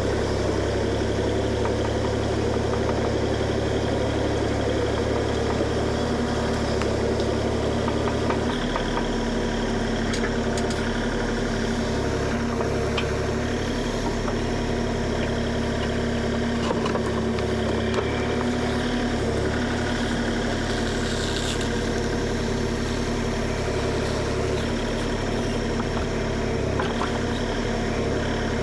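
Kubota KX040 compact excavator's diesel engine running steadily, its low note shifting about eight seconds in.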